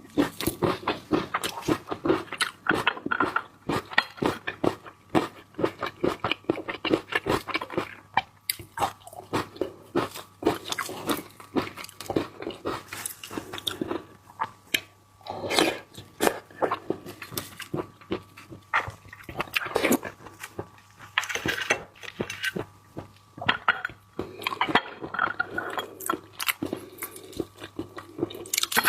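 Close-miked mukbang eating sounds: irregular crunching, biting and wet chewing of raw seafood, with continual small clicks and smacks.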